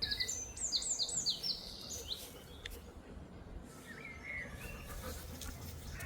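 Small bird singing: a quick run of high, down-sliding notes in the first second and a half, then a short lower call about four seconds in, over a faint low rumble.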